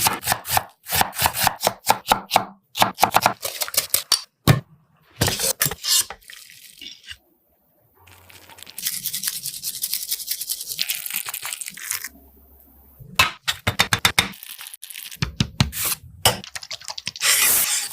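Street-food cooking sounds: quick knocks, clicks and scrapes of utensils on a pan, with a stretch of steady hiss in the middle. The sound drops out abruptly for about a second, twice.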